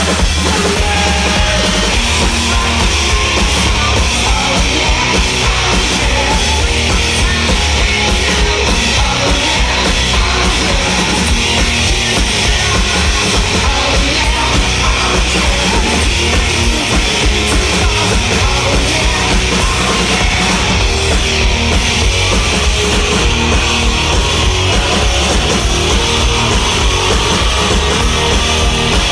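A rock band playing live, loud and without a break: electric guitar over a drum kit.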